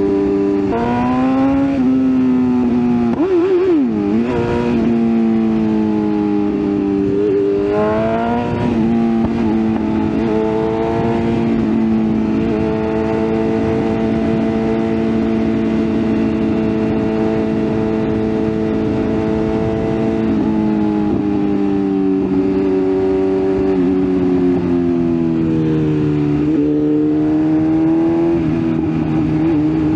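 BMW S1000RR inline-four engine running while riding, its pitch rising and falling with the throttle. It climbs twice in the first ten seconds, holds a steady cruising pitch, then drops lower about twenty seconds in, over constant noise.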